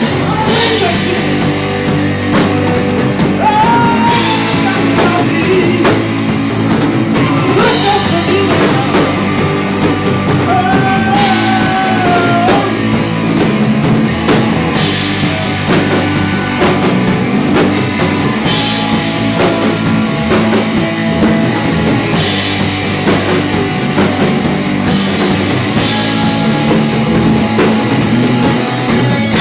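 Live rock band playing an instrumental stretch: drum kit with cymbal crashes every couple of seconds under a lead line of long, bent notes.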